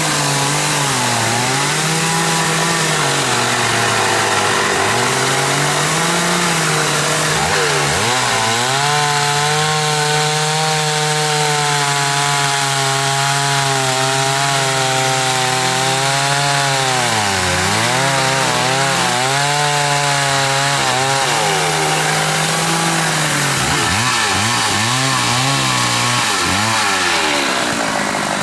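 Chainsaw running at high revs while cutting wood, its engine pitch dipping and recovering several times as the bar loads up in the cut, with a longer stretch of falling and rising revs near the end.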